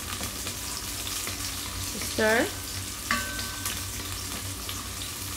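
Garlic and sliced onion sautéing in a pot: a steady sizzle, with scraping and scattered clicks of a spoon against the pot as it is stirred.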